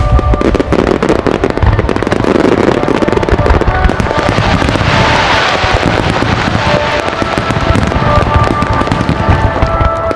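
A dense volley of fireworks shells bursting and crackling, with music playing over the show's loudspeakers. A swell of hissing crackle comes about halfway through.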